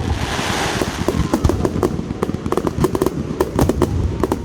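Fireworks display going off: a dense, rapid string of crackling pops and bangs, with a hissing burst in the first second.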